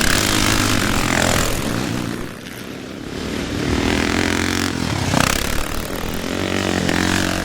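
Classic off-road motorcycles racing past, engines revving hard. One bike passes with a falling pitch about a second in, the sound drops away briefly, then another bike comes up loud.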